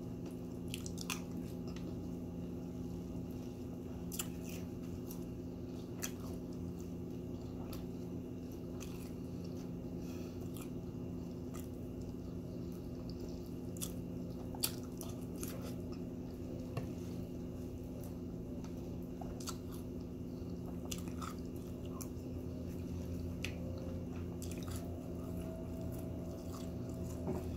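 Close-up chewing and crunching of Honey Nut Cheerios in milk, with scattered short clicks of a spoon against the bowl, over a steady low hum.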